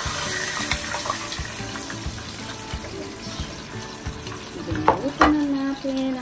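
Sea bream frying in a pan of hot oil, a steady sizzle, as fish are lifted out with metal tongs; two sharp clicks about five seconds in. Background music.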